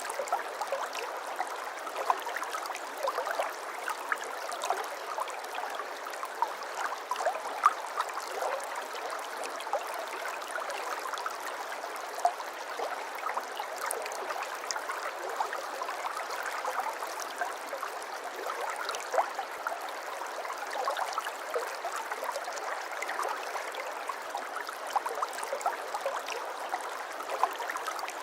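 Water flowing and trickling steadily in a shallow stream, a continuous babble of many small splashes and gurgles.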